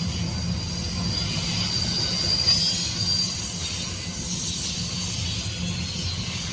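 Union Pacific intermodal freight train's cars rolling past, steel wheels squealing in a high pitch over a steady low rumble.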